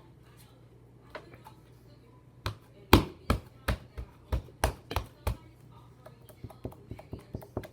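A run of about nine sharp taps or knocks at roughly three a second, starting a few seconds in, followed near the end by a quicker run of lighter ticks.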